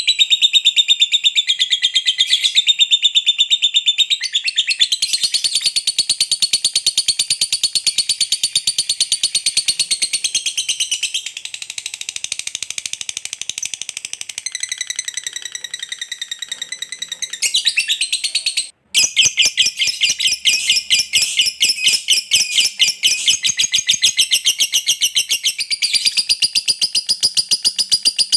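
Lovebird ngekek: a long, rapid, high-pitched chattering trill that runs on almost without pause, broken only by a very short gap about 19 seconds in.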